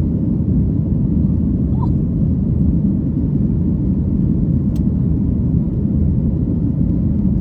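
Steady low rumble of an airliner's cabin noise, engines and airflow, with one faint click about halfway through.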